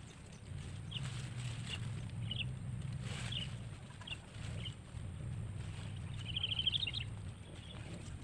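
Bird calling in a grassy field: short high chirps about once a second, then a quick trill of about eight notes near the end, over a low steady rumble.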